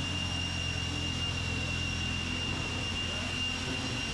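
A steady, low engine drone with a thin, steady high-pitched whine above it, unchanging throughout.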